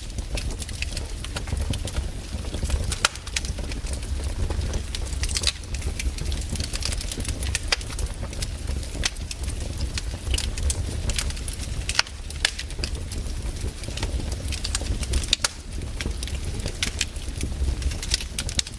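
Campfire burning, with the wood crackling and popping at irregular moments over a steady low rumble.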